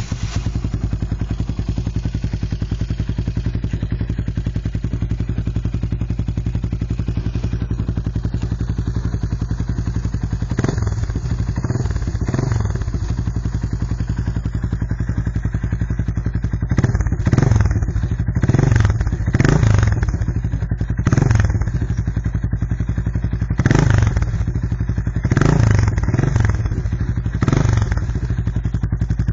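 Suzuki Goose 350's single-cylinder four-stroke engine starting and idling steadily through a stock muffler rebuilt as a straight-through silencer (perforated pipe wrapped in wool), with short throttle blips: a couple about a third of the way in, then a series in the second half.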